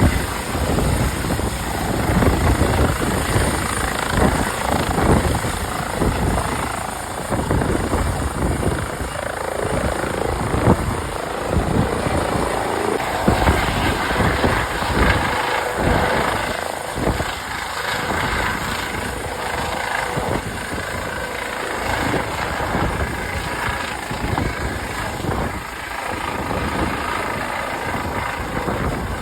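A vehicle on the move, its engine and road noise running steadily under a heavy, uneven rumble of wind buffeting the microphone.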